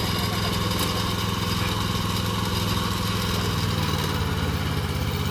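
Small engine of a Maxxi PF48 rice transplanter running steadily.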